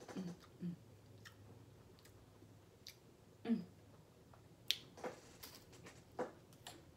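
Close-up eating sounds: chewing crackers and crab salad, with scattered short wet mouth clicks and smacks, and a bite into a cracker near the end.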